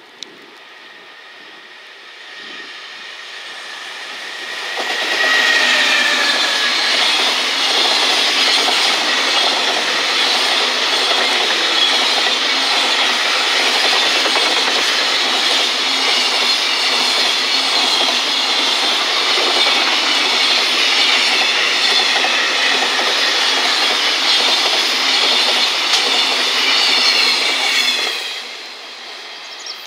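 Container freight train hauled by a JR Freight EF210 electric locomotive passing close by. The noise builds as the locomotive comes on and passes about five seconds in, with a tone falling in pitch as it goes by. The wagons' wheels then roll past with a loud, steady noise that drops off sharply about 28 seconds in, as the last wagon clears.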